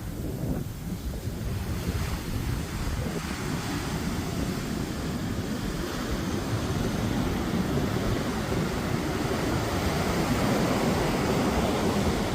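Heavy storm surf from a hurricane swell, waves breaking and rushing up the shore in a continuous wash, growing louder toward the end, with wind rumbling on the microphone.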